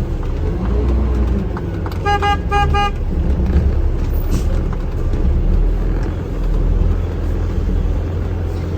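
Vehicle horn tooting a few short times in quick succession, about two seconds in, over the steady rumble of the engine and road.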